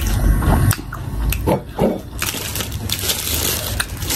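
Close-miked chewing of crisp fried pakodas: crunches and wet mouth clicks, growing into a dense crackle about halfway through.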